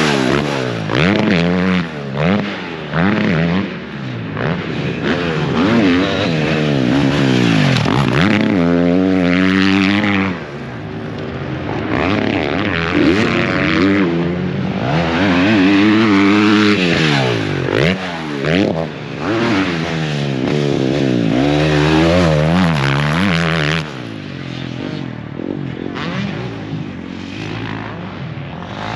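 Motocross bike engines on a dirt track, revving up and backing off over and over as the bikes accelerate and slow, with more than one engine heard at times.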